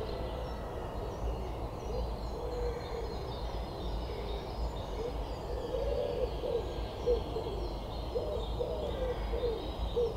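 A bird giving low, repeated calls, several short phrases in a row, with faint higher birdsong behind.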